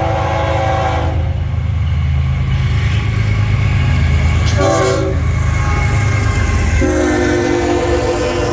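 Florida East Coast Railway freight locomotive's air horn sounding the grade-crossing signal as the train approaches: a long blast ending about a second in, a short blast near the middle, then a long blast starting near the end. Under it runs the steady low rumble of the lead locomotives.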